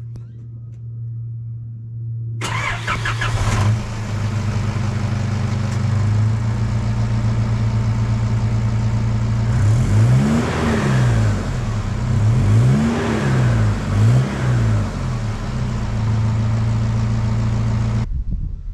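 Turbocharged 4WD engine idling through a new mufflerless exhaust, then revved four times in quick blips, each rising and falling back to idle, before it cuts off suddenly near the end.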